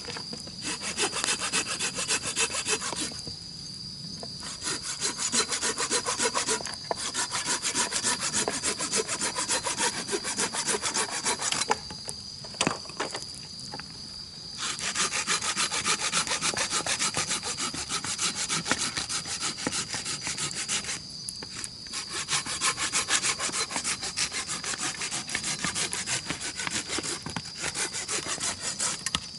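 Insects calling: a dense, rapid rasping trill in long bouts, breaking off briefly about 3, 12 and 21 seconds in, over a steady high-pitched insect whine. A few sharp pops, typical of a campfire crackling, stand out now and then.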